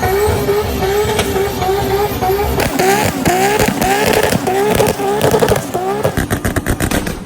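Car engine running hard, holding a steady note at first, then revving in quick repeated rising sweeps about twice a second from a little under three seconds in.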